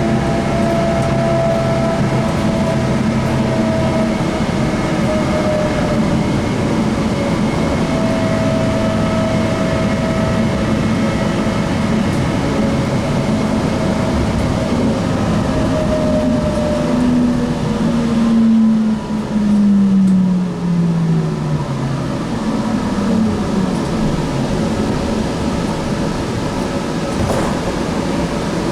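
Link light rail train heard from inside the car, running through the tunnel with a steady rumble and electric motor whine. About two-thirds of the way through the whine falls in pitch as the train slows for the station, then it settles to a steady ventilation hiss.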